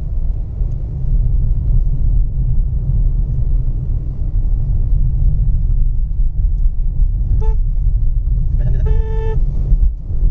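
Heavy low rumble of a car driving along a road. A vehicle horn gives a short toot about seven seconds in, then a longer honk about a second later.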